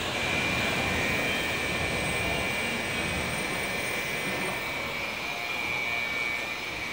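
Tokaido Shinkansen train pulling out past the platform: a steady rushing run with a steady high tone through it, easing off slightly near the end.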